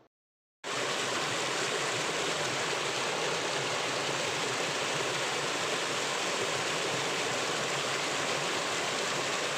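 Water of a small hillside waterfall rushing and splashing in a steady, even stream, starting abruptly after a brief silence under a second in; the flow is low.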